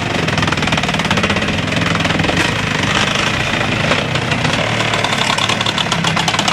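Engine-driven log-processing machinery running with a fast, dense rattling clatter over a low engine hum.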